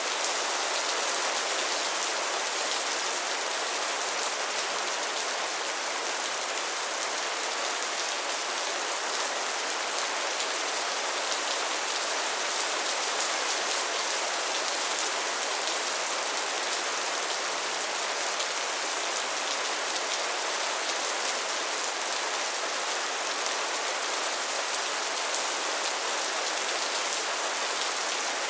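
Steady rain falling, an even hiss of many drops with no letting up.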